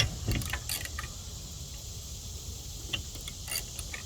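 Light clicks and taps of hand tools being handled, several in the first second, then a couple of isolated ticks near the end.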